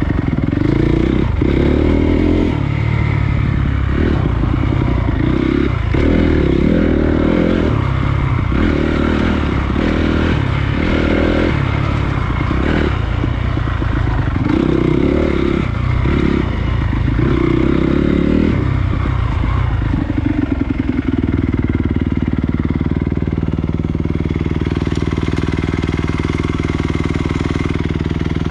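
Honda CRF250 dirt bike's single-cylinder four-stroke engine on a trail ride, the throttle opened and closed in quick surges about once a second, then settling to a steady, even note for the last several seconds.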